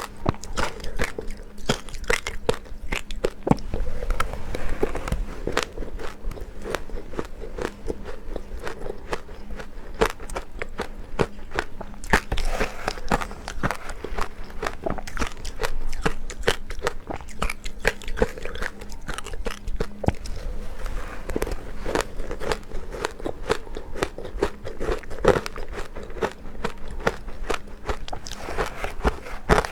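Close-miked biting and chewing of powdery ice, a dense, unbroken run of crisp crunches and crackles.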